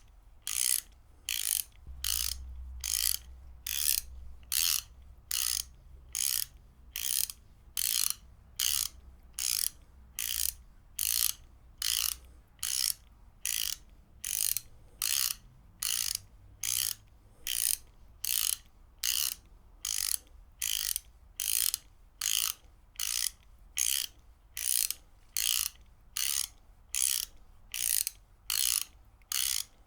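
Ratchet wrench clicking in short bursts, its pawl rattling over the gear teeth on each back-stroke, repeating evenly about one and a half times a second.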